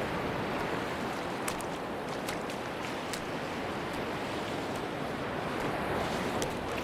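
Steady wash of sea surf on a beach, a continuous even hiss of breaking waves, with a few faint short ticks scattered through it.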